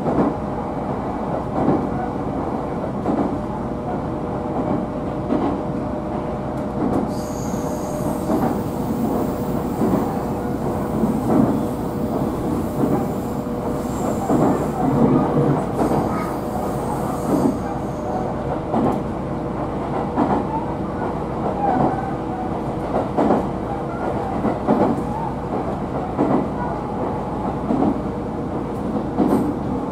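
JR Minobu Line electric train running along the track, heard from inside the carriage: a steady running rumble and hum with repeated clicks over the rail joints. A high wheel squeal joins in from about 7 to 17 seconds in.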